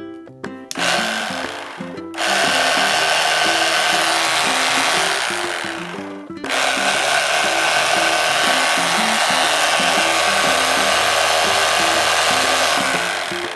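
A cordless power tool's motor whirring while being test-run to check it works. It starts about a second in and gets louder about two seconds in, stops briefly around six seconds, then runs steadily again until just before the end. Background music plays underneath.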